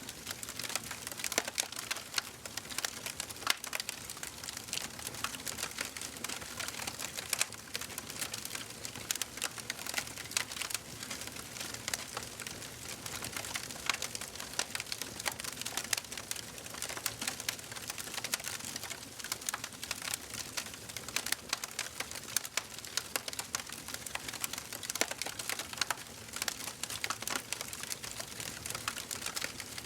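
Wood fire burning in a fireplace, crackling and popping continuously: many small irregular snaps over a soft hiss.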